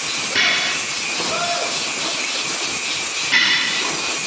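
Steady hissing noise, with two sudden louder surges of hiss, about half a second in and again about three seconds in.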